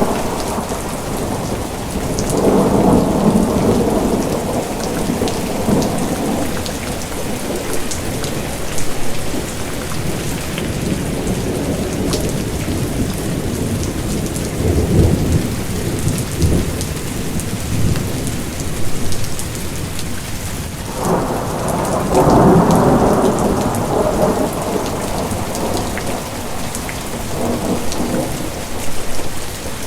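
Steady rain pattering on a surface, with thunder rumbling low beneath it. A louder roll of thunder starts suddenly about two-thirds of the way through and swells before fading back.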